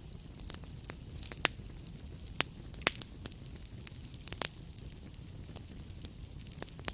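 Wood fire burning in a fireplace: a steady low rumble and hiss with irregular sharp crackles and pops, a few of them louder, around one and a half, two and a half, three, and four and a half seconds in, and at the very end.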